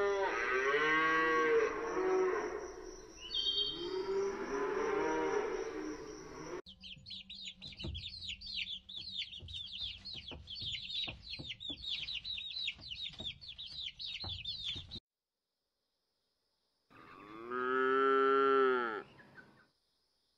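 Cattle mooing, several long drawn-out moos one after another; then a brood of young chicks peeping, a dense high chatter lasting about eight seconds; after a short silence, one more long moo.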